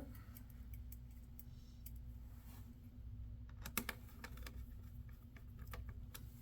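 Scattered light clicks and taps of hands handling an open laptop's plastic parts and small screws, with a slightly louder double click nearly four seconds in, over a steady low hum.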